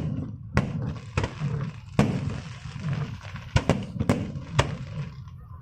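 Aerial fireworks going off in a display: about seven sharp bangs at uneven spacing, two of them close together in the second half, with a low rumble between the bursts.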